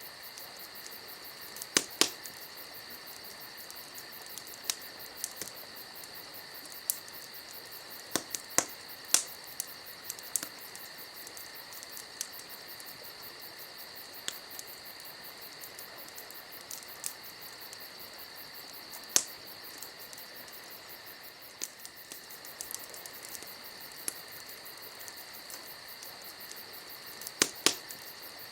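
Wood campfire crackling, with sharp single pops every few seconds, the loudest a pair about two seconds in and another pair near the end, over a steady high-pitched chorus of night insects trilling.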